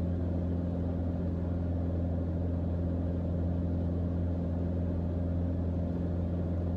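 Cabin drone of a Mooney M20J in cruise descent: the Lycoming four-cylinder engine and propeller running steadily, an even hum with no change in pitch.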